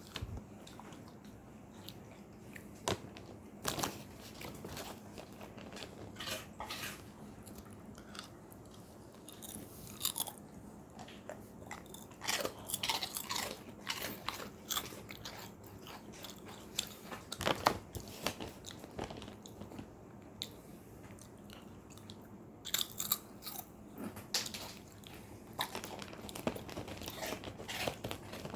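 Labrador retriever crunching and chewing a hard twisted treat: irregular bursts of crisp crunches with short pauses between them.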